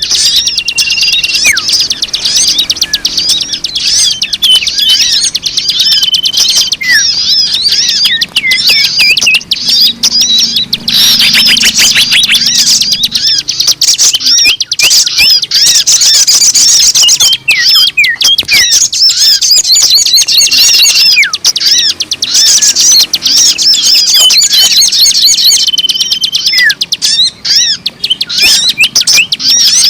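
A dense chorus of small birds chirping and twittering, with many rapid overlapping calls and trills. A few short, clear whistles stand out now and then.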